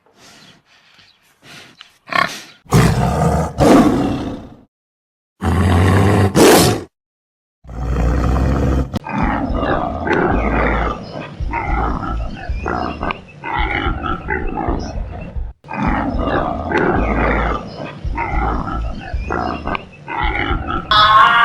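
A series of loud animal roars and calls: a few separate roars in the first seven seconds, then a long run of short, repeated calls that goes on almost without a break.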